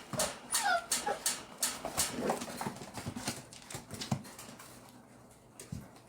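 American bully puppies playing: short whimpers and yips, including a falling whine about half a second in, over a busy run of taps, scuffles and knocks that thins out over the last two seconds.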